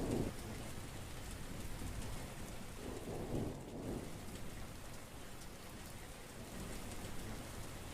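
Heavy rain falling steadily, with brief low rumbles of thunder right at the start and again about three seconds in.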